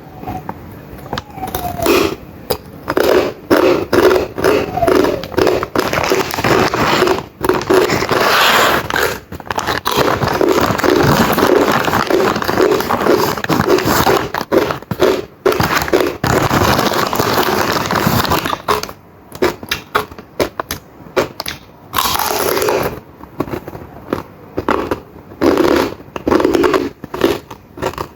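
Crunchy fried pork skin being chewed close to the microphone: loud crackling crunches in a steady chewing rhythm of about two to three bites a second, with a few short pauses.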